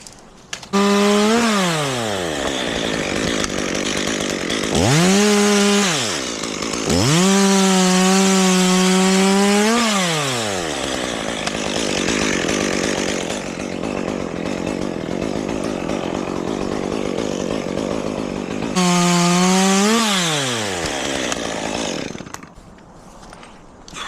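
Chainsaw revved to full throttle four times, its pitch falling away each time the throttle is released, with rougher, lower running through the wood between the third and fourth revs. It stops about 22 seconds in.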